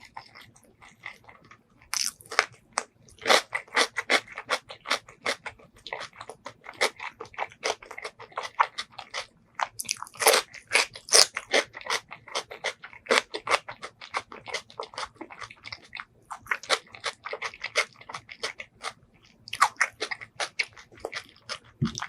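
A person chewing and biting pork leg curry with rice close to the microphone: a quick, continuous run of wet clicks and crunches, which picks up about two seconds in after a quieter start.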